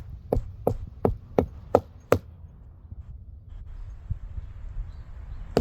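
Knocking on a hollow tree trunk: six sharp knocks at about three a second, then a pause, with the knocking starting again at the very end.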